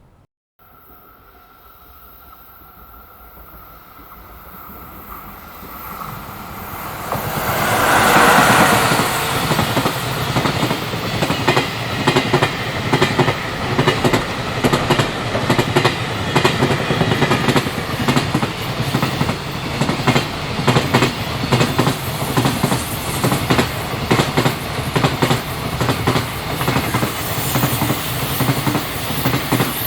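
Freight train approaching and passing close by. It grows louder until the locomotive goes past about eight seconds in, then a long string of container wagons follows with a steady, rhythmic clickety-clack of wheels over rail joints.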